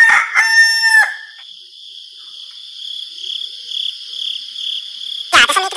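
A rooster crowing once at the start, then a steady high pulsing chirr of insects, then frogs croaking loudly in a chorus near the end, like a rural soundscape.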